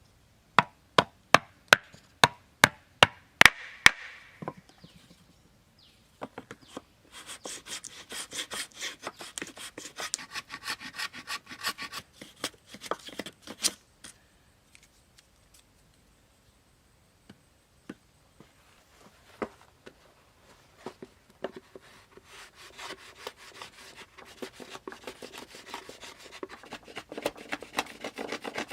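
Hand tools working wood. It opens with about eight sharp strikes, roughly two a second, then turns to long stretches of rasping and scraping on wood, with a short lull and a few single knocks in the middle.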